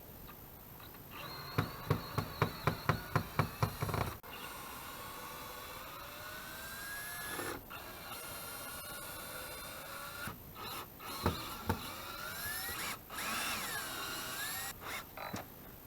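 Power drill or driver running, with a rapid run of sharp clicks about four a second for a couple of seconds near the start, then quieter tool noise and a few knocks.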